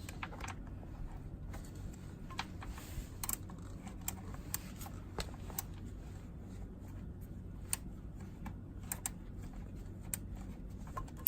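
Irregular small metallic clicks and taps of a socket tool on a slide handle working at a stubborn engine screw, over a steady low hum.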